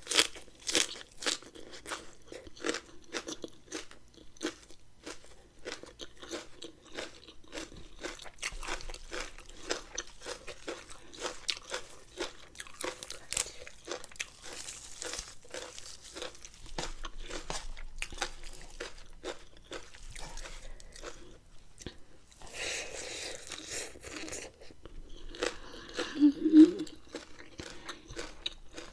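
A person chewing and crunching food close to the microphone, with many small wet mouth clicks. There is a brief louder mouth sound near the end.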